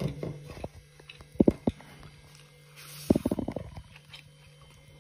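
Close-up eating sounds of rice and pork curry eaten by hand: wet chewing and mouth smacks in two short runs, about a second and a half in and again about three seconds in, over a low steady electrical hum.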